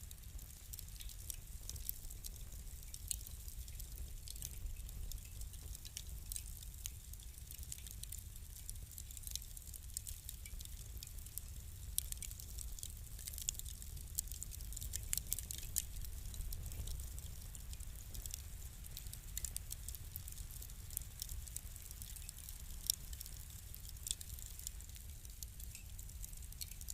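Wood fire crackling: irregular sharp pops and snaps, many small and a few louder, over a low steady rumble of the burning.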